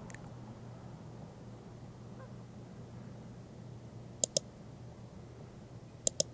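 Two quick pairs of short, sharp clicks, one pair about four seconds in and one near the end, over a steady low hum.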